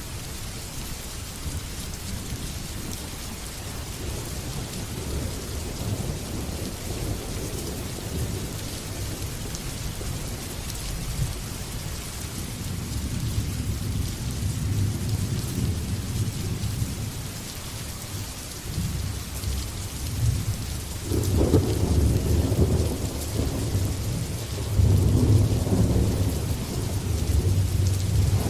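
Steady heavy rain hissing, with thunder rumbling low beneath it; the thunder builds and swells loudest twice, about 21 and 25 seconds in.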